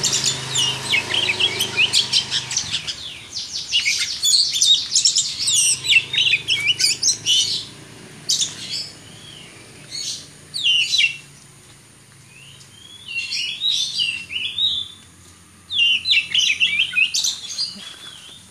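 Oriental magpie-robin (kacer) singing: varied phrases of rapid high whistled and chattering notes, broken by short pauses, quieter in the middle and loud again near the end.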